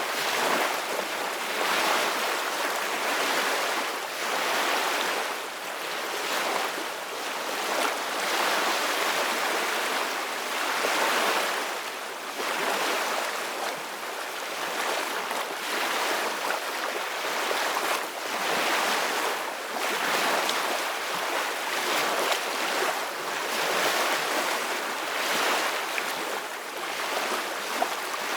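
Ocean surf washing against the shore: a continuous rush of water that swells and eases every few seconds.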